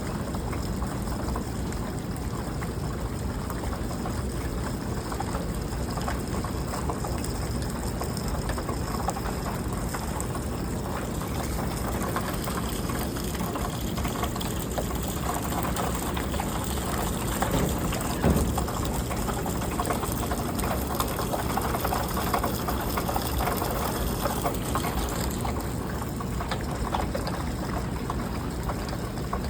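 Steady rain falling, an even hiss and patter that holds constant throughout. A single brief thump stands out about two-thirds of the way through.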